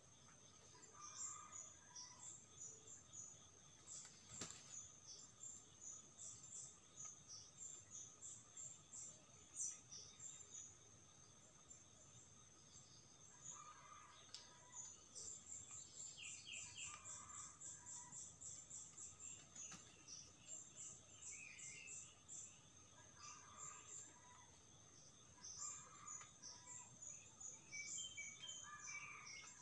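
Faint forest ambience: insects keep up a fast, high-pitched chirring throughout, and short bird calls break in now and then, including a falling call about two-thirds of the way in.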